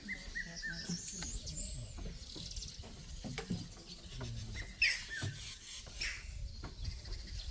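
Several wild birds chirping and calling with short whistled notes and quick pitch glides, one sharp call near five seconds in the loudest, with scattered soft clicks among them.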